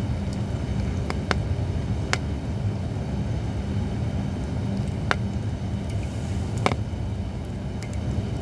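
Holly firewood burning in an open campfire, crackling with a handful of sharp, widely spaced pops, over a steady low rumble.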